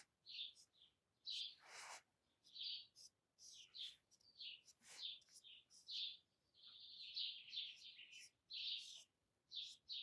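Faint birds chirping: a string of short, high chirps, coming closer together about seven seconds in.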